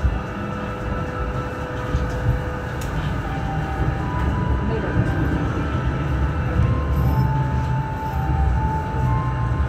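A Hong Kong Light Rail Phase I car heard from inside the cabin as it pulls away, with a low rumble of wheels and running gear that slowly grows louder. Thin whining tones sit over the rumble and change pitch in steps.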